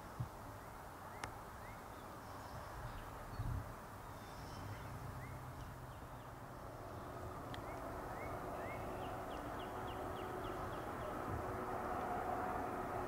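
Distant diesel freight train approaching, a low rumble with a few steady engine tones that grows gradually louder through the second half. Birds make short rising chirps and a quick trill over it.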